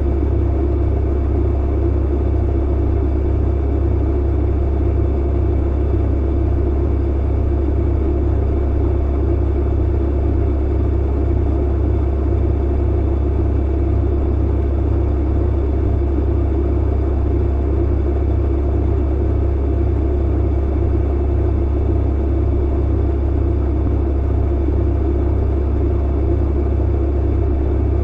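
Clothes dryer running: a steady, even low rumble and hum from the tumbling drum and motor, with no breaks or changes.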